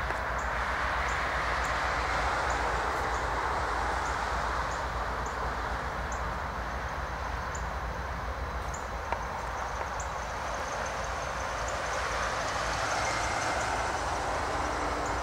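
Diesel-electric locomotives leading an intermodal freight train as it approaches, engines running as a steady rumble and rush. Faint high ticks repeat about every half second throughout.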